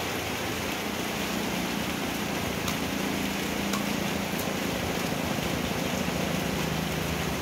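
Steady rain falling, an even hiss, with a few faint taps from a knife slicing on a wooden cutting board.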